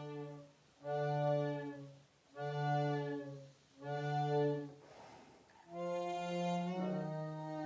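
Suzuki S48B bass chromatic harmonica played through a Boss MD500 modulation effects pedal with added amp reverb. The same low note sounds four times, about a second each, then after a breathy pause a longer note that steps down a little near the end.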